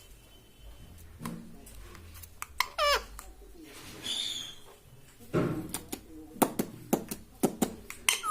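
Ring-necked parrot making a few short squawky calls, then a brief high whistle, followed by a run of sharp clicks over the last few seconds.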